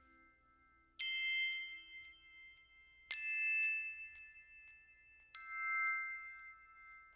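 Three high, bell-like chime notes struck about two seconds apart, each ringing on and slowly fading, as in closing background music.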